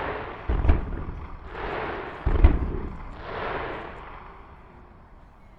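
Aerial firework shells bursting over the sea: two sharp booms about half a second and two seconds in, each followed by a longer fading rumble, with the sound dying away near the end.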